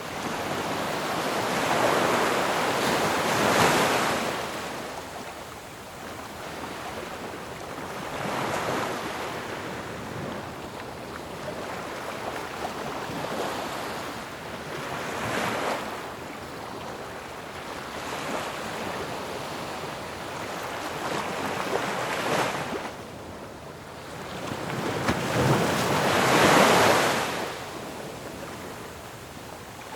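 Sea waves breaking on a shore, a steady wash with swells surging every several seconds, the biggest near the end, over a rushing of wind.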